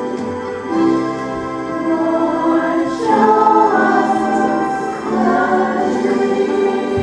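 A choir singing a song with instrumental accompaniment, in long held notes.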